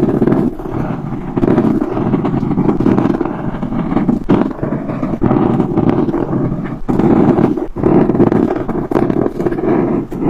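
Colouring tool scrubbing back and forth on paper, close up: continuous rough rubbing strokes, broken by a few brief pauses as it lifts off.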